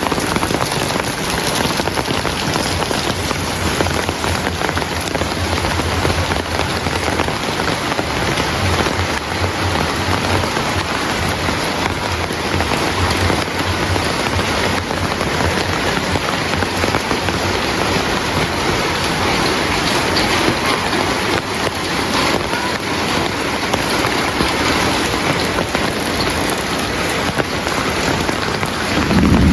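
Heavy rain falling steadily on surfaces, a dense even hiss with a faint low rumble underneath through the first half.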